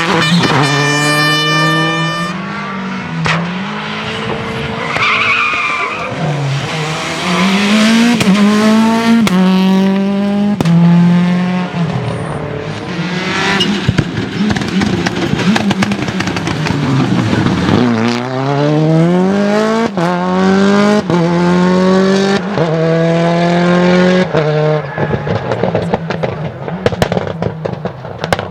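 Rally car engine at full throttle, revving up through the gears: the pitch climbs and falls back at each upshift, with a long lift and slowdown about two-thirds through before it pulls hard again. Sharp cracks and tyre noise run through it.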